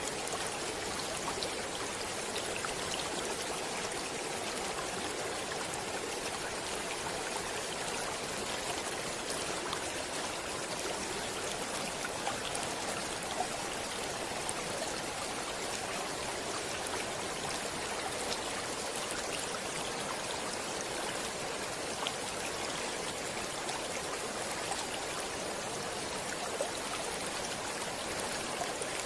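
Stream water running steadily, an even rushing with small splashes and droplet ticks scattered through it.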